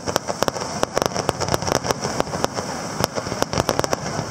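Fireworks going off: a rapid, irregular series of sharp bangs and cracks.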